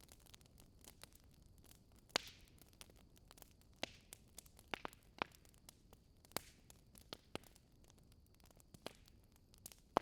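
Wood fire crackling in a fireplace: scattered sharp pops and snaps at irregular intervals over a faint steady hiss, the loudest pop about two seconds in followed by a short hiss.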